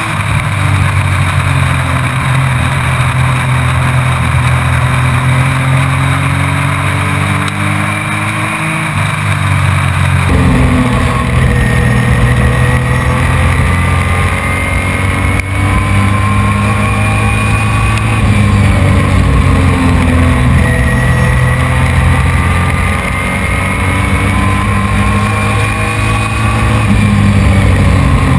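Race truck's engine heard from on board, running hard at racing speed. Its pitch climbs steadily for several seconds at a time and then drops back, several times over, as the truck speeds up and slows for the turns lap after lap.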